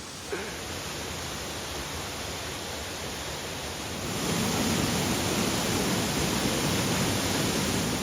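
Waterfall rushing: a steady noise of falling water that gets louder about four seconds in.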